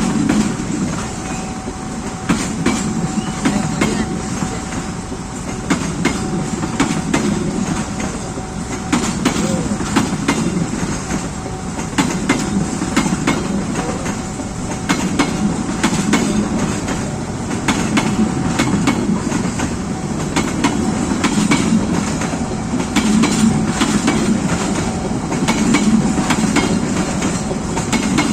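Passenger train with stainless-steel carriages rolling past. Its wheels click over the rail joints again and again over a steady rumble, with a faint steady whine underneath.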